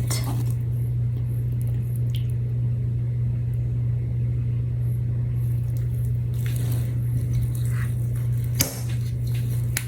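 Steady low hum with a couple of faint light clicks.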